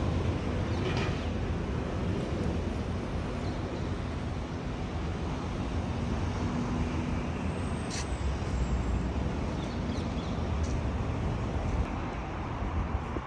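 Steady rumble of road traffic heard across an urban park, with a faint steady hum and a single short click about eight seconds in.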